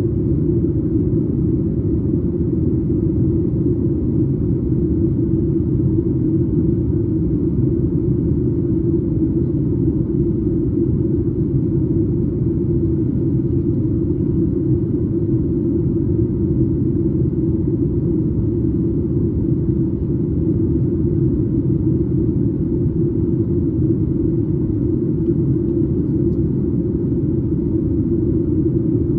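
Steady low rumble of engine and airflow noise inside the cabin of a Boeing 737 MAX 8 airliner in flight, heard from a window seat just behind the wing; its CFM LEAP-1B turbofans and the rushing air hold an even drone.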